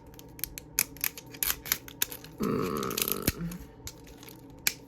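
Plastic packaging of a toy capsule crackling and clicking as it is picked and cut open by hand, with a louder, denser stretch of rustling about halfway through.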